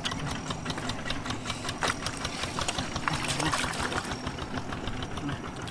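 A small motor running steadily, with rapid clicking.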